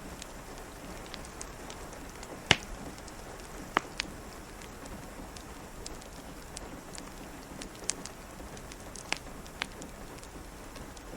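Steady patter of rain with a wood fire crackling, its sharp pops scattered irregularly through it; the loudest pop comes about two and a half seconds in.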